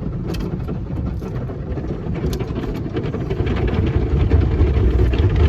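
Automatic car wash working over a car, heard from inside the cabin: a dense low rumble of water and machinery on the body, with many small spattering knocks, growing louder in the second half.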